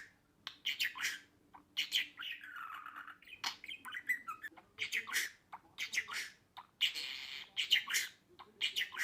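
Budgerigar chirping and chattering in quick bursts of short calls, broken by a couple of longer scratchy warbles.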